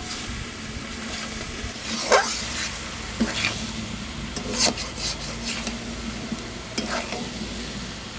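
Masala sizzling as it fries in a pan, with a utensil stirring and scraping through it about four times.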